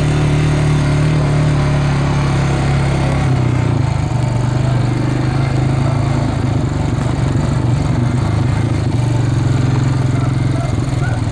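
A vehicle engine running steadily, giving a loud, even low hum.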